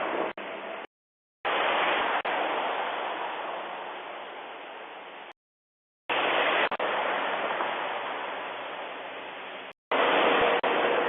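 Road noise of a passing truck, with a low engine hum under a loud rush of noise. It starts loud and fades away over several seconds, in three short clips that each cut off abruptly into dead silence.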